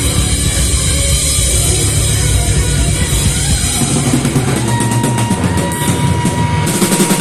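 Live metal band playing at full volume: distorted guitars and a drum kit. About halfway through the deepest bass thins out and sharp drum and cymbal hits come to the front.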